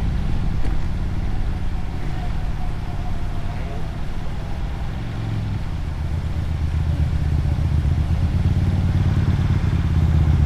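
Motorcycle engine and exhaust heard from on board while riding, under steady wind and road noise. The engine eases off a few seconds in, then pulls harder again over the second half.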